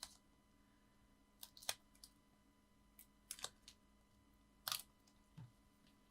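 Quiet hand work with card and foam pads: scattered light clicks and taps, two of them sharper, and a soft knock near the end.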